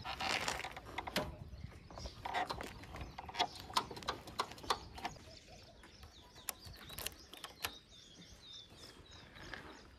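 Birds chirping, with many short clicks and knocks, most of them in the first half.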